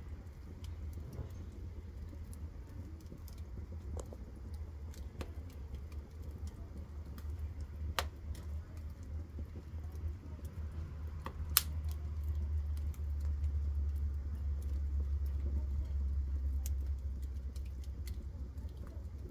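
Wood fire crackling in a stove: scattered sharp pops, the loudest about eight and eleven and a half seconds in, over a steady low rumble that grows a little in the second half.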